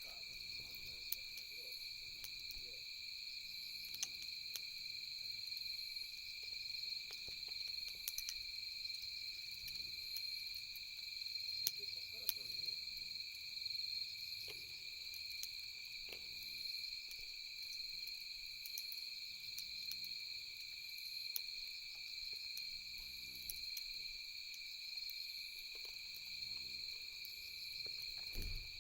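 A steady chorus of night insects such as crickets, with scattered sharp crackles and pops from a wood campfire.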